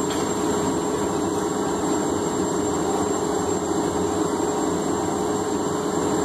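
Steady roar of a blacksmith's forge running, with a thin high whine over it and no hammer blows.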